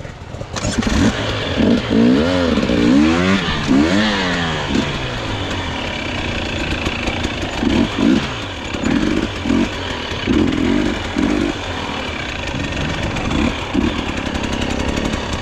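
Dirt bike engine revving hard, its pitch swinging up and down over the first few seconds, then a string of short throttle bursts.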